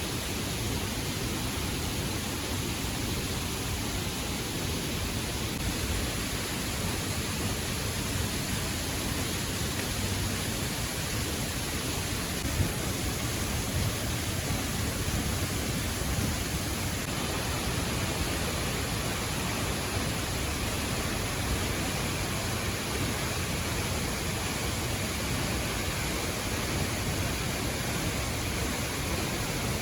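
A tall waterfall, about 32 metres high, pouring into a gorge: a steady, dense rush of falling water that never lets up.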